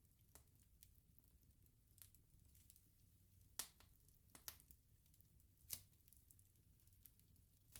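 Wood bonfire crackling: scattered sharp pops and snaps from the burning logs, the loudest about three and a half seconds in, over a faint low rumble of the flames.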